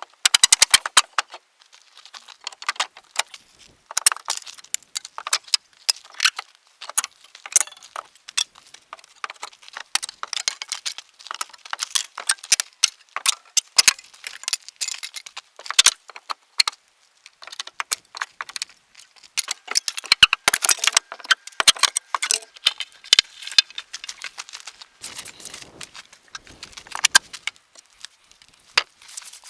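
A dense, irregular run of rapid clicks and clinks, with a few heavier knocks in the second half.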